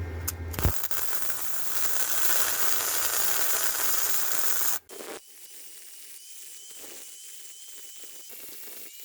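A 120-volt flux-core welder, heat turned all the way up, crackling and hissing steadily for about four seconds while it lays weld to build up a thick steel fender-strut corner. The arc then cuts off suddenly and a quieter steady hiss continues.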